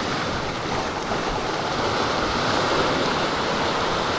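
Sea surf washing steadily against the shore, an even rushing sound with no distinct breaks.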